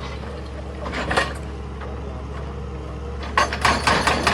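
Excavator's diesel engine running steadily with a low hum and a few scattered knocks. About three and a half seconds in, a dense run of sharp clattering knocks begins: rock and stone grinding and breaking under the machine.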